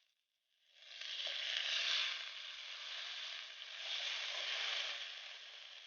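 Vegan scallops frying in butter in a pan, a sizzle that starts about a second in, swells twice and eases off near the end.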